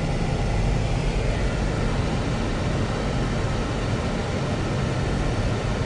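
A car driving at a steady pace. A steady low rumble of engine and road noise runs under an even hiss.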